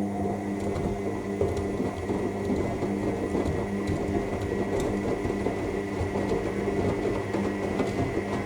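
AEG L7FE7461BI washing machine turning its drum during the main wash: a steady motor hum with a thin high whine, and laundry tumbling irregularly in the drum. The drum starts turning just before and stops just after.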